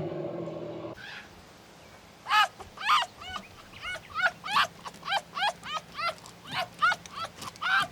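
A small animal giving a rapid series of short, high-pitched yips or squeaks, about two to three a second, starting a couple of seconds in after a sustained many-toned sound cuts off.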